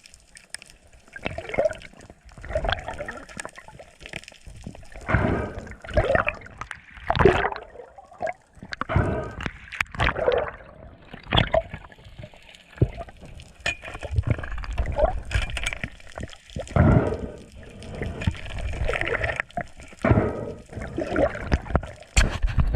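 Sea water sloshing and gurgling around a GoPro at the surface, in irregular bursts.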